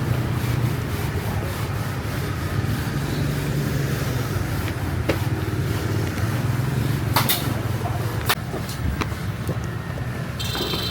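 A steady low mechanical hum with a few sharp clicks and taps over it, the loudest a little after seven seconds in.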